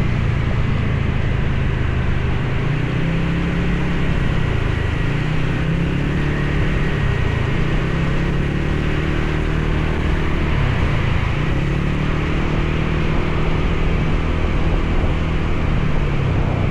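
Motorcycle engine running while riding, its pitch rising and falling with the throttle and dipping briefly around eleven seconds in, under a steady rushing hiss of wind and rain.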